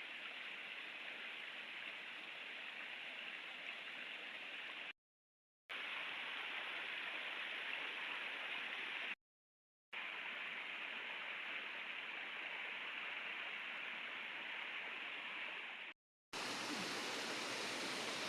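Steady rush of flowing water, even and unbroken, dropping out to dead silence three times for under a second.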